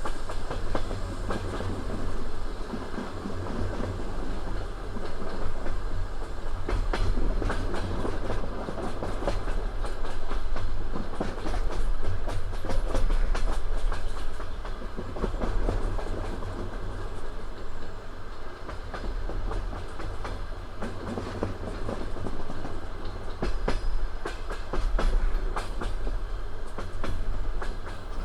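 Passenger train wheels running over the rails: a steady low rumble with repeated clicks and knocks over the rail joints.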